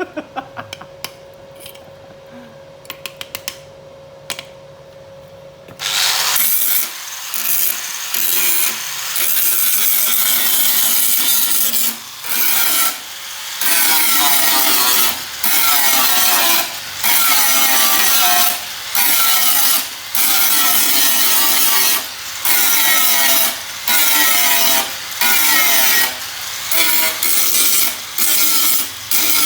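Rasping strokes of a tool cutting or abrading the Vespa's sheet-steel floor panel. They start about six seconds in after some faint clicking and repeat roughly once a second with short pauses.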